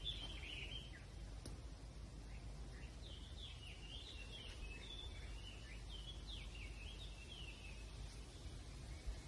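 A songbird singing a run of short, quick warbled phrases, with a steady low outdoor rumble underneath.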